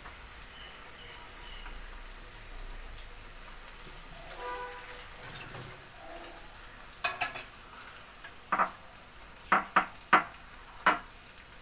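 Mustard oil sizzling steadily in a kadai of mola carplet fish and fried potato sticks. In the second half come about eight sharp clicks and knocks, louder than the sizzle.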